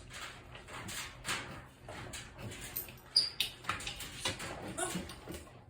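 Dogs eating their supper: irregular crunching and clicking, with a few brief high-pitched squeaks.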